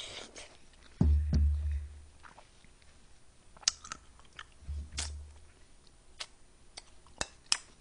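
A person chewing a mouthful of watermelon fruit punch close to the microphone, with scattered sharp clicks and a few low thumps.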